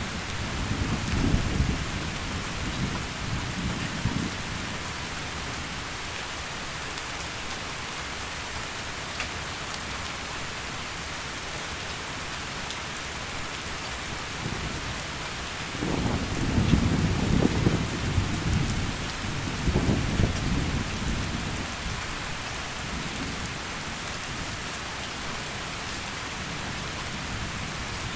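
Heavy rain falling steadily in a thunderstorm. Low thunder rumbles through the first few seconds and again, louder, from just past the middle for about five seconds.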